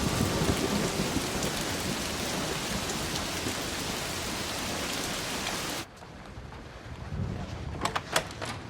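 Heavy rain falling steadily as a storm sound, with thunder rumbling at the start. It cuts off suddenly about six seconds in, leaving a quieter room with a few sharp knocks near the end.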